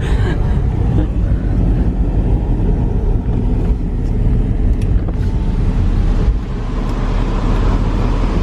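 Car driving along, with steady engine and tyre rumble.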